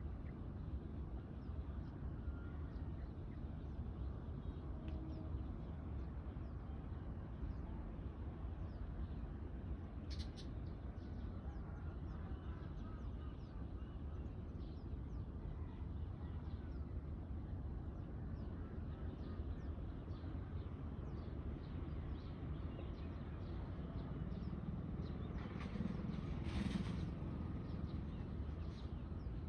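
Birds calling at dawn: many short chirps over a steady low background hum, with a louder call about ten seconds in and a stronger burst of calling near the end.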